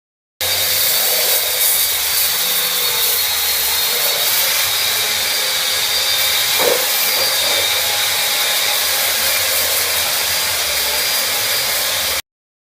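A tool blowing air, hissing steadily with a high whine, with one brief knock about halfway through.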